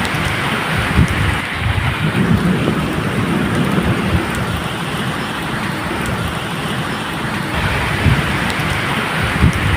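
Steady medium rain falling, with low thunder rumbling and rolling underneath.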